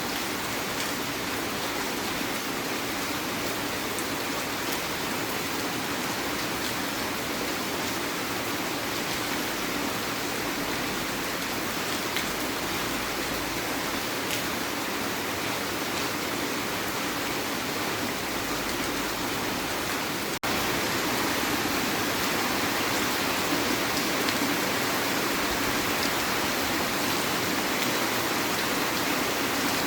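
Heavy rain falling steadily, a dense even hiss. It drops out for an instant about twenty seconds in and comes back slightly louder.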